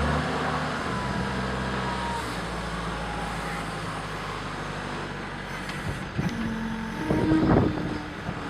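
Case 420 skid steer loader's turbocharged engine running, its pitch dropping as the revs come down at the start and then holding steady. Several loud knocks and clanks come near the end.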